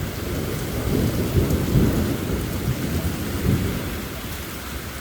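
Heavy rain falling with thunder rumbling, the rumble swelling about a second in and again past the middle.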